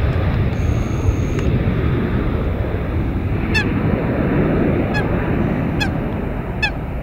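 Steady low rumble with a bird honking four times in the second half, short calls about a second apart.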